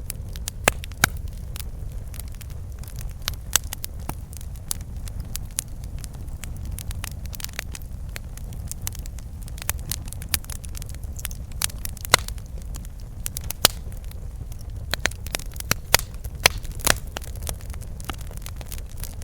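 Wood campfire burning, with irregular crackles and sharp pops over a steady low rumble of the flames.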